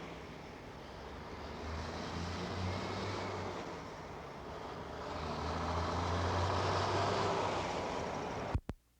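Road traffic: motor vehicles driving past with a low engine drone, swelling twice as vehicles go by. Near the end it breaks off with a sharp click and a moment of dead sound, as at a film or tape cut.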